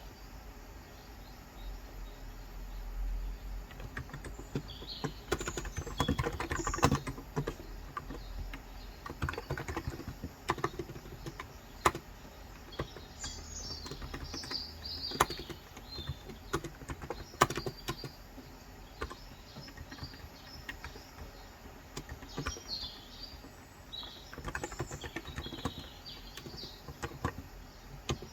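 Typing on a COX Endeavour electrocapacitive (Topre-style) 35 g tenkeyless keyboard, in irregular bursts of keystrokes with short pauses. Small birds chirp now and then in the background.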